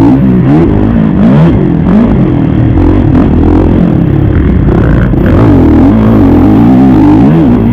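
Kawasaki KX450 four-stroke single-cylinder motocross engine being ridden hard, its revs climbing and dropping again and again as the throttle is opened and rolled off.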